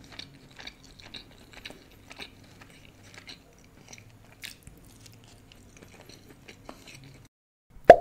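Close-miked chewing and biting of rice and fried chicken: a run of small wet clicks and crunches. It cuts off abruptly near the end, followed by a single loud, short hit.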